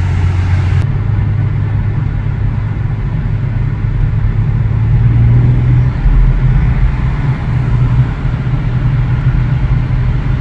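Car engine and exhaust droning while driving. The note climbs around the middle, then changes abruptly about six seconds in, as with a gear change.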